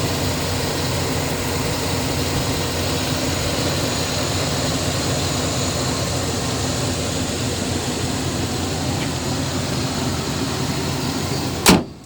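Pickup truck engine idling steadily under the open hood. A single sharp bang comes near the end, and the engine is much quieter after it.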